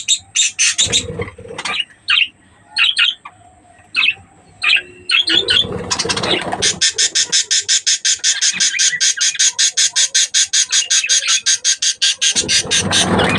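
Budgerigars chirping: scattered short calls at first, then a fast, even string of high chirps at about eight a second from about six seconds in. A burst of low rustling comes about six seconds in and again near the end.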